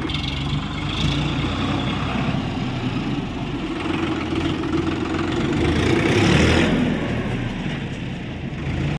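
Heavy diesel engine of working machinery running steadily, growing louder for about a second some six seconds in before settling back.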